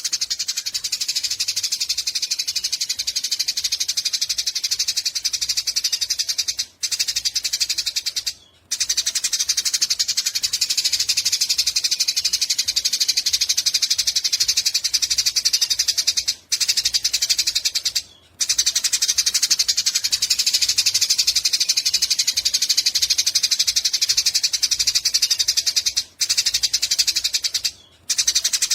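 Eurasian tree sparrow giving a long, very fast, high chattering trill, the run of notes breaking off briefly a few times and starting again each time.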